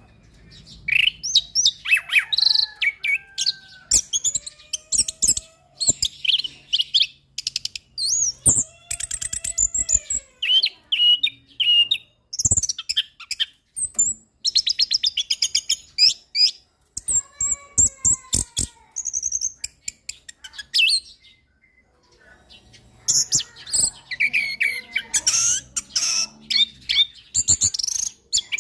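Orange-headed thrush singing a long, varied song of whistled and sliding phrases, rapid trills and quick runs of dry clicking notes, with a short pause about three quarters of the way through.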